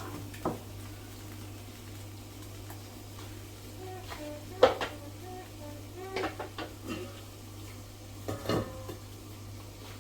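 A spoon clinking and scraping against a pot of liver curry that is left to cook slowly. There are a handful of short knocks, the loudest about halfway through, over a steady low hum.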